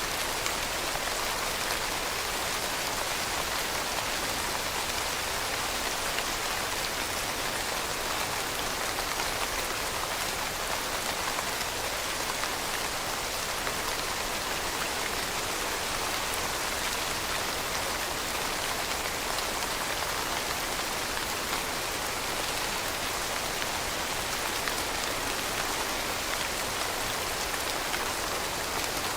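Steady rain, with dense fine drops pattering on a surface. The hiss sits mostly in the upper range, with little low rumble and no thunder.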